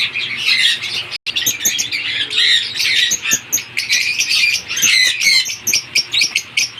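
Lovebirds chattering: a continuous stream of rapid, high-pitched chirps and squawks, with a momentary break about a second in.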